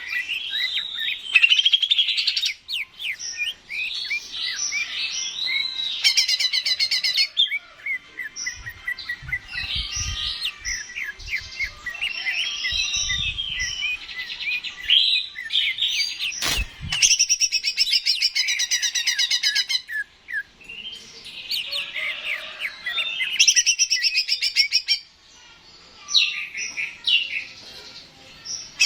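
Greater green leafbird (cucak ijo) singing a varied song of quick whistled phrases broken by several fast rattling trills. A few low thumps sound in the middle and a sharp click a little past halfway.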